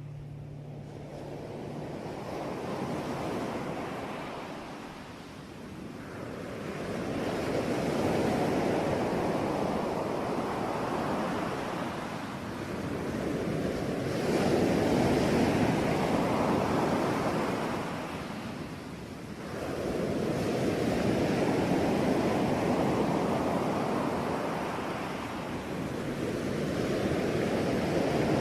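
Sea waves breaking on a shore, each swell rising and falling away roughly every six seconds.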